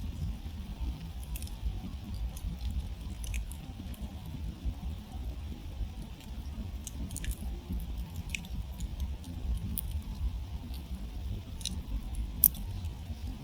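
Wood campfire crackling: scattered sharp snaps and pops over a low, steady rumble, with one louder pop near the end.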